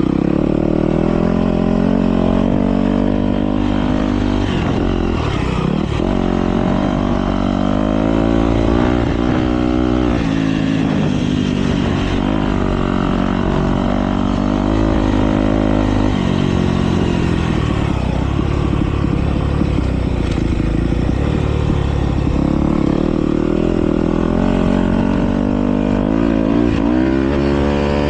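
Several motocross bikes racing, their engines revving up and down repeatedly through gear changes and throttle on and off, several engines overlapping.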